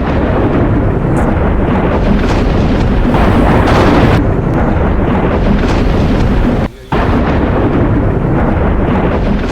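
Heavy thunderstorm downpour: a loud, continuous rush of rain and wind with deep rumbling. It breaks off briefly about seven seconds in.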